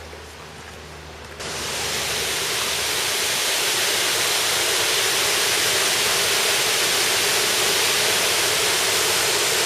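Waterfall, a loud steady rush of falling water that cuts in abruptly about a second and a half in, after quieter outdoor ambience.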